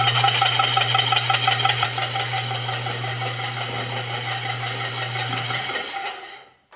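The 3/4-horsepower electric motor driving a 30-pound Kerrihard power hammer runs with a steady hum and a grinding sound, while the hammer's friction drive slips instead of turning the hammer: the drive wheel is too smooth to grip. Near the end the hum cuts off and the noise dies away as the motor spins down, followed by a single click.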